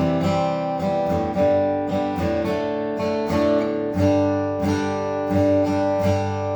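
Seagull SWS mahogany acoustic guitar being strummed, ringing chords struck about twice a second.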